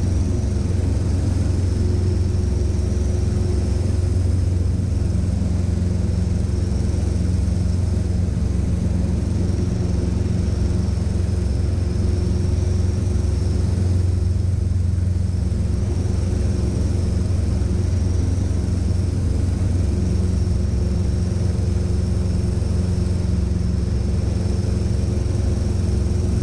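Cessna 150's four-cylinder Continental O-200 engine and propeller droning steadily at constant power.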